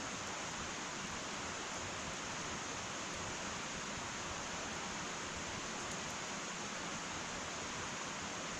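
Wood fire burning in an irori hearth: a steady, even hiss with a few faint tiny crackles.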